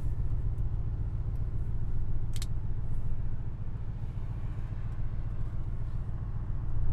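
Mercedes-AMG C63 S's twin-turbo V8 running steadily on the move, a low rumble with no revving up, with one short sharp click about two and a half seconds in.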